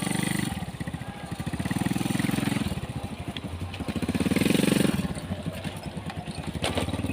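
An engine running with a fast, even pulse, its note swelling and easing off twice.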